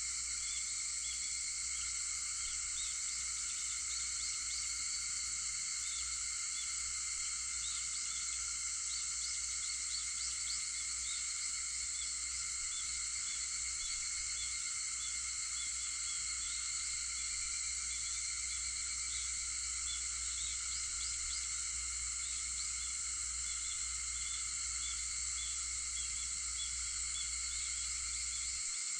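Cicadas droning steadily in a shrill, unbroken chorus, with faint short chirps repeating over it.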